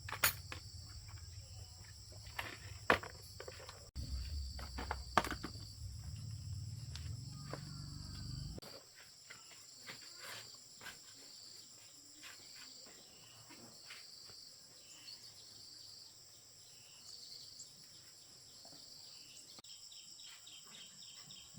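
Insects trilling steadily in the background, with scattered small clicks and knocks of handling. A low hum runs under the first part and stops abruptly about eight and a half seconds in.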